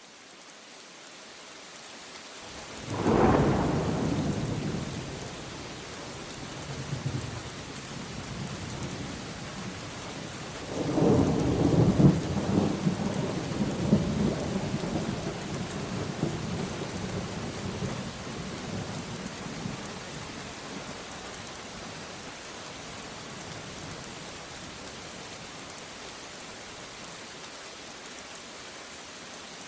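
Steady rain falling, with two peals of thunder: a sharp crack about three seconds in, and a longer rolling rumble starting about eleven seconds in that dies away over several seconds.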